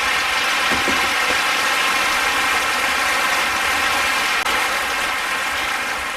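Handheld gas torch burning with a steady hiss, heating a seized broken bolt in an engine head to loosen its threads; the hiss fades toward the end.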